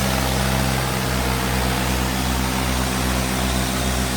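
Diesel tractor engines running at a steady, even pitch during a tractor tug-of-war pull.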